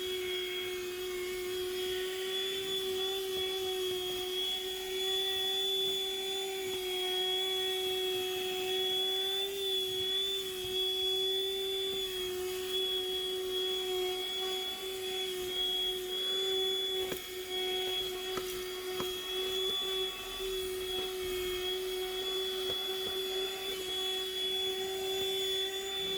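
Small handheld car vacuum running steadily, its motor giving a constant high whine with a slight wobble in pitch, and an occasional faint tap.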